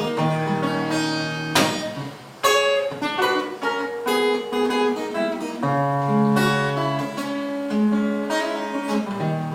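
Acoustic guitar playing a slow accompaniment: ringing plucked notes, with a few strummed chords.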